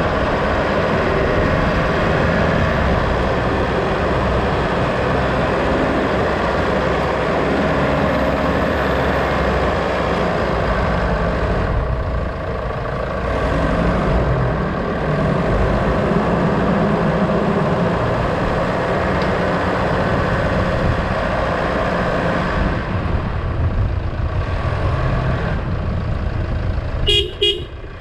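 Vehicle engine and road noise running steadily, heard from a camera riding on the vehicle, with a short beep near the end.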